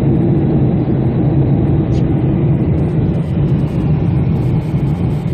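Steady low drone of an airliner heard from inside the cabin: engine and airflow noise running evenly, with no change in pitch.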